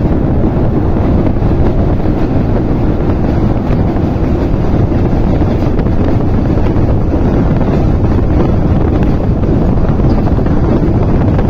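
A passenger train running at speed, heard from an open carriage window as a loud, steady rush of rolling noise and wind buffeting the microphone, while it crosses a steel girder bridge.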